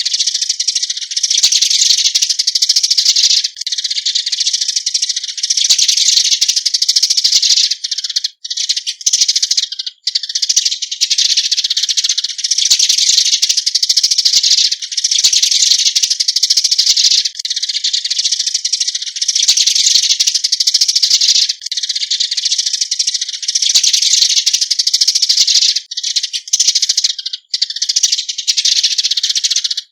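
Eurasian tree sparrows giving their flock-gathering call: a loud, dense run of high chirps with a few brief breaks.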